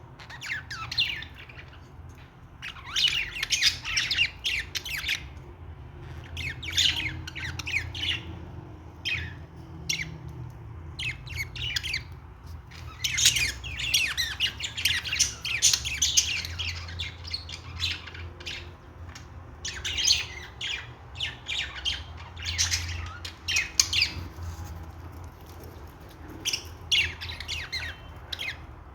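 Pet budgerigars chirping and squawking in repeated bursts of chatter every few seconds, over a low steady hum.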